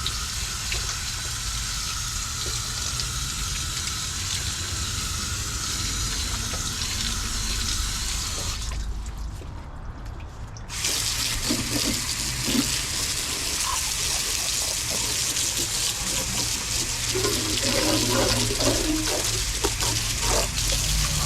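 Water spraying steadily onto the sheet metal of a car's engine bay, rinsing sanding residue off the paint. The spray stops for a couple of seconds about nine seconds in, then starts again.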